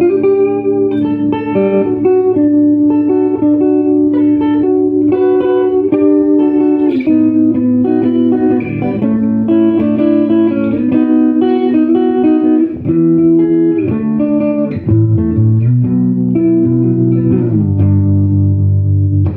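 Electric guitar on its neck pickup played through a 1968 Fender Super Reverb tube amp with four 10-inch speakers: a continuous passage of ringing chords and single notes, with a few slides in pitch in the second half.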